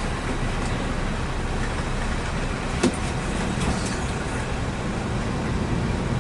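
Steady rumble of vehicle engine and road noise, with a single sharp knock about three seconds in.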